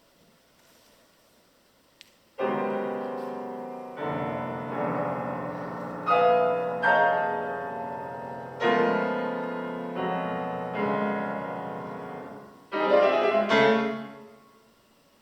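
Solo piano: after about two seconds of near silence, loud chords are struck every second or two and each is left to ring and decay. A quick flurry of notes near the end dies away.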